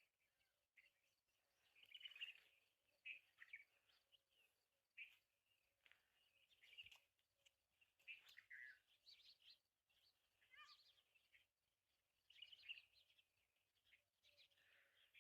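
Faint, scattered bird chirps: short calls and quick pitch sweeps, coming every second or so, over quiet background noise.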